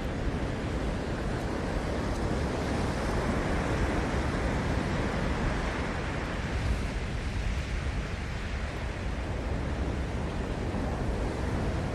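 Ocean waves breaking on a seashore: a continuous wash of surf that swells about three seconds in and eases off after about seven.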